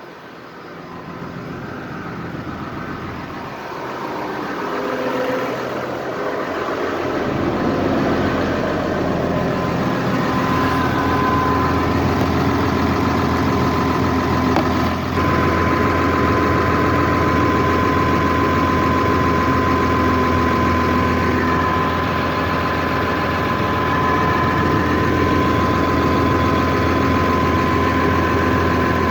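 Heavy vehicle engine running, growing louder over the first several seconds and then holding steady, with a low hum and a steady whine.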